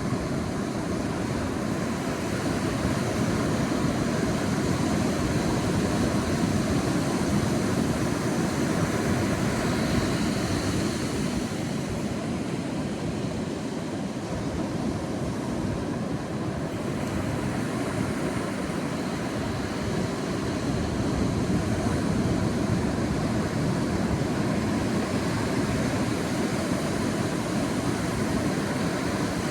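Sea surf washing onto a beach: a steady rushing that swells and eases slowly.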